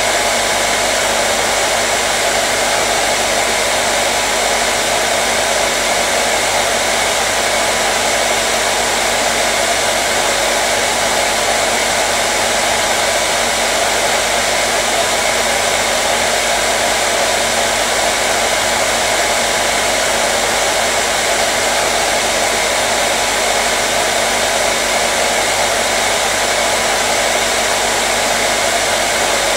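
Hair dryer running steadily: a constant, unvarying whoosh of blown air with a faint motor hum, played as white noise to soothe a colicky baby.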